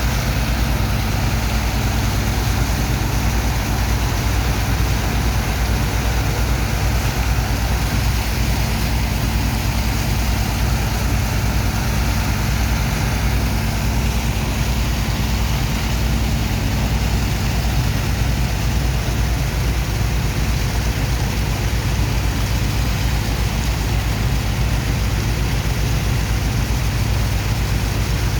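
Sand dredger's engine and pump running steadily: a deep, even drone under a constant hiss, with no change in speed.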